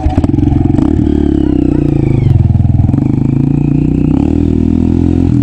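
Motorcycle engine running close by, revving up and easing off several times.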